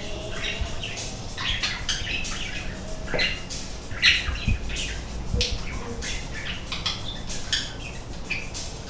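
Birds chirping: many short, sharp calls in quick succession, over a low steady hum.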